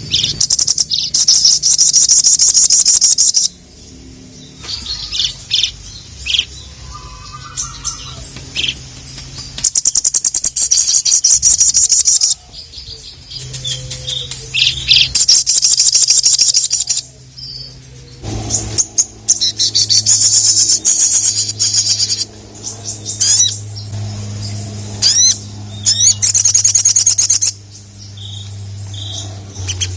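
Little spiderhunter (sogok ontong) singing: fast, high-pitched rattling trills in bursts of two to three seconds, repeated about every few seconds with short pauses between. A faint steady low hum runs underneath.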